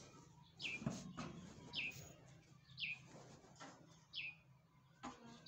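A bird chirping: a short high note that drops in pitch, repeated about once a second, four or five times.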